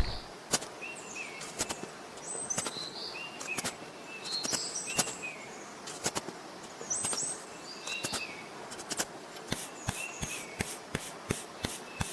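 Birds chirping in short, pitch-bending calls again and again, with sharp clicks scattered through. Near the end the clicks turn into a quick, even run of about four a second.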